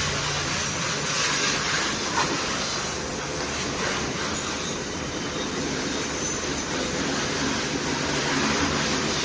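High-pressure washer running steadily, its motor humming under a continuous hiss of water spray.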